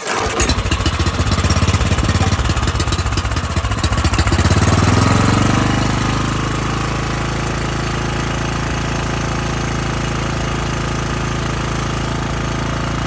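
Troy-Bilt Horse tiller's small engine starting on choke with its new carburetor, cured of its no-start. It runs rough and uneven for about five seconds, then the pitch shifts and it settles into steady running.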